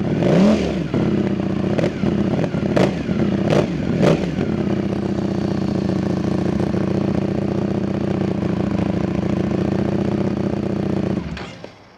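Ducati Streetfighter V4S's 1103 cc V4 engine running through an Arrow titanium exhaust, extremely loud. A quick throttle blip about half a second in, then several sharp cracks over the next few seconds, then a steady idle that cuts off abruptly near the end.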